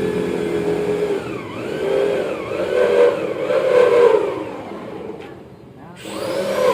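A motor revving up and down over and over, its pitch rising and falling about once a second, dropping away briefly near the end and then picking up again.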